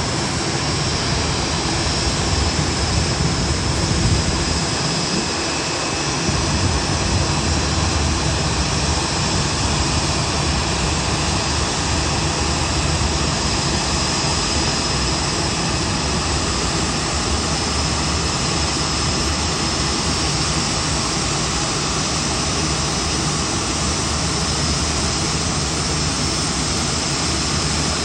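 Jet noise from a Boeing 787-9 airliner: a steady rush with a high whine held on one pitch.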